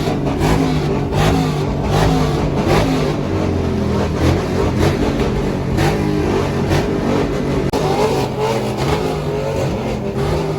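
Vehicle engines revving, loud and continuous, with the pitch rising and falling.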